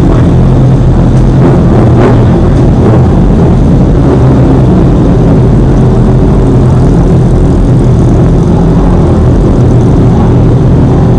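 Honda CBR600F motorcycle riding at a steady cruise: a steady engine drone under loud, constant rushing noise.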